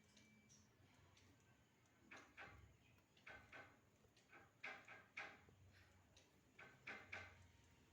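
Pet budgerigars making faint, short, scratchy sounds that come in scattered clusters from about two seconds in.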